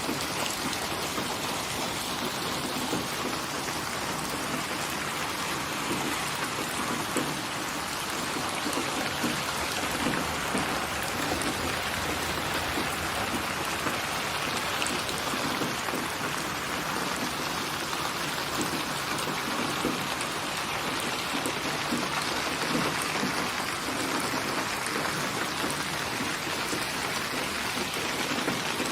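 Steady rain falling, an even wash of noise that holds level without thunder.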